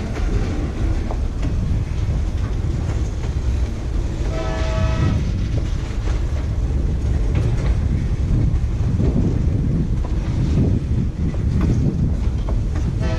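Kansas City Southern ballast train rolling past: a steady heavy rumble with rail clicks and clatter from the cars, and a brief high-pitched tone about four seconds in and again at the very end.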